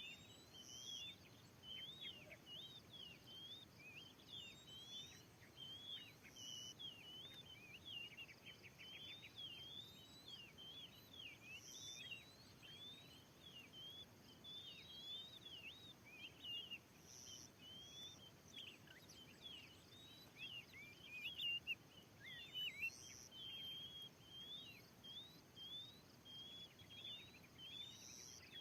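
Oriental magpie-robin (kacer) singing, faint: a fast, unbroken stream of varied whistled and chattering notes, with a short higher blip every few seconds.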